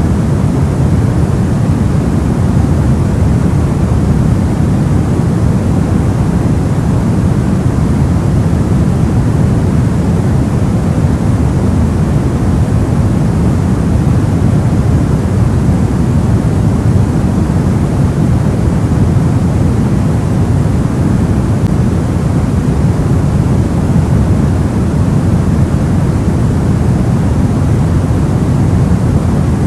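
Steady soft white noise for sleep: an even, deep hiss weighted toward the low end, unchanging throughout.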